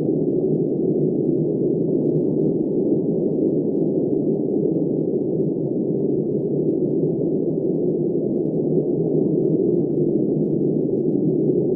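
Steady wind blowing: a deep, muffled, even rush with no high hiss and no gusts or breaks.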